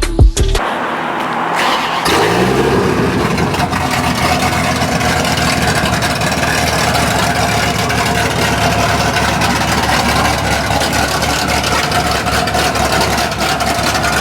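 Cammed Dodge Ram SRT-10's 8.3-litre V10, with headers and a full 3-inch exhaust, fires up about two seconds in, its revs rising briefly, then settles into a steady idle.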